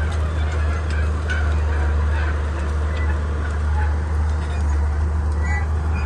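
Komatsu D31P bulldozer's diesel engine running steadily, with short high-pitched squeaks scattered throughout.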